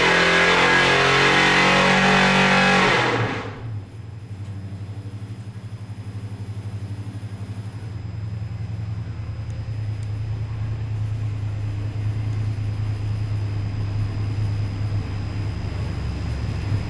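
Background music fading out about three seconds in, then a 355 cubic-inch small-block Chevy V8 crate engine running on the dyno with a steady, evenly pulsing note that slowly grows louder.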